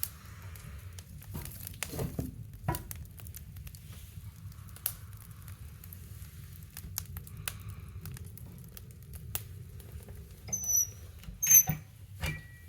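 Small wood fire crackling in a woodstove: irregular sharp pops and ticks over a low steady rumble, with a louder burst of pops and a couple of short squeaky hisses near the end.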